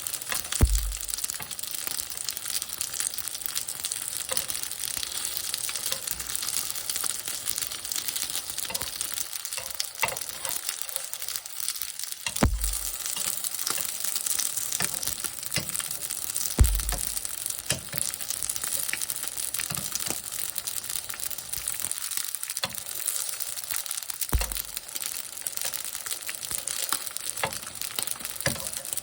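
Dumplings frying in a pan, a steady crackling sizzle with a few brief low thumps.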